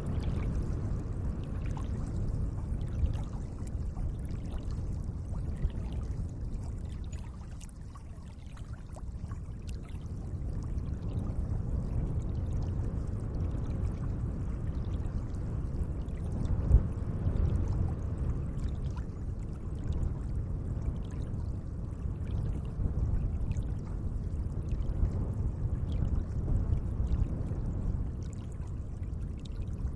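Lake water moving gently at the shore: a steady low wash with many small splashes and drips. It eases off briefly about a quarter of the way in, and there is a single sharper splash a little past halfway.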